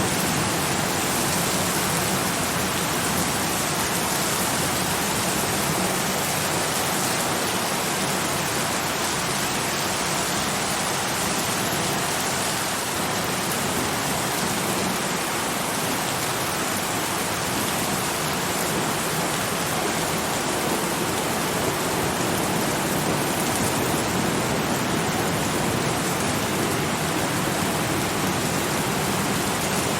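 Steady heavy rain: a dense, even hiss that holds at the same level throughout.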